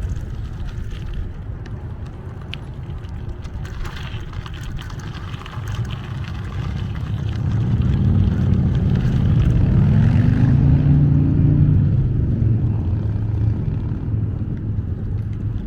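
A motor vehicle passes close by, its engine note swelling and curving up then down about halfway through, over a steady low rumble of wind and road noise.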